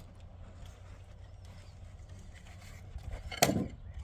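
Low steady background hum, then a single loud knock about three and a half seconds in, ringing briefly after it.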